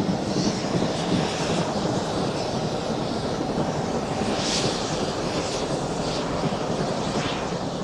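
Steam locomotive working hard, a steady roar of exhaust with a few sharper chuffs standing out near the middle and end.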